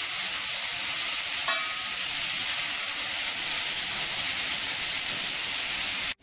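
Chopped onions and tomatoes frying in hot oil in a pan, a steady sizzling hiss as they are sautéed down for a gravy base. The sizzle cuts off suddenly near the end.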